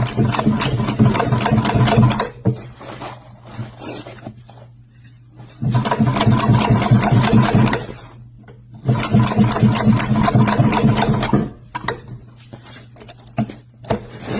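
Sewing machine stitching a goalie glove, in three runs of rapid, even needle strokes with short pauses between, over a steady motor hum.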